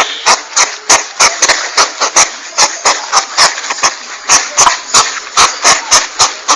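Landak, sold on the track as a hedgehog, giving a rapid, even run of sharp huffing clicks, about four a second, over a steady hiss.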